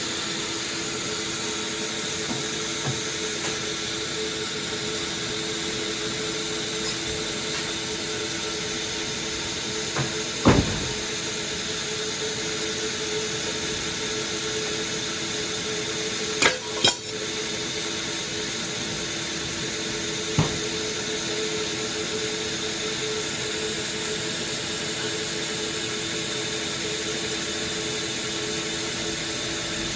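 Sawmill machinery running with a steady hum and hiss, broken by a few sharp knocks: one about a third of the way in, two in quick succession just past the middle, and one more a few seconds later.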